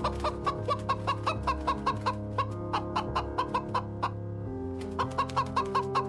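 A chicken clucking in quick, regular calls, about five a second, with a short break about four seconds in, over background music with sustained chords.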